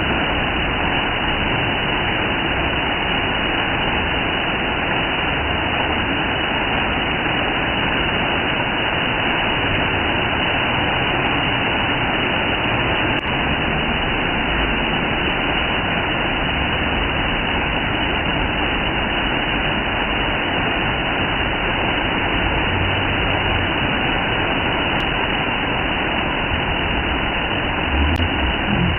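Waterfall: falling water rushing in a steady, unchanging noise.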